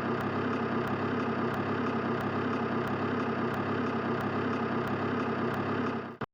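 A motor running steadily at an even level with a faint regular tick about three times a second, cutting off abruptly just before the end.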